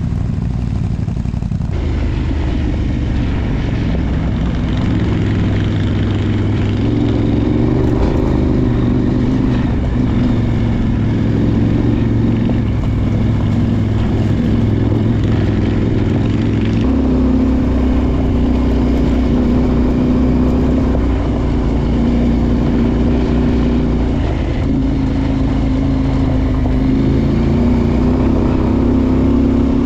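Adventure motorcycle's parallel-twin engine running while riding, its pitch stepping up and down several times with throttle and gear changes.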